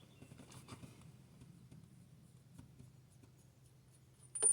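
Faint small clicks and scrapes of hand tools and hardware being handled. Near the end, a small metal part drops and clinks against metal with a brief high ring: a bolt or spacer from the exhaust-stud bypass kit falling into the engine bay.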